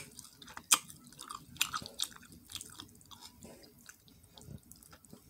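Close-miked chewing of a person eating a pork pigtail: irregular wet smacks and clicks of the mouth and lips, the sharpest right at the start and about a second in.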